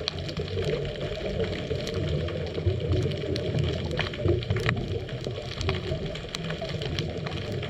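Underwater ambience picked up by a GoPro in its dive housing: a steady low, churning rumble of moving water with scattered sharp clicks throughout.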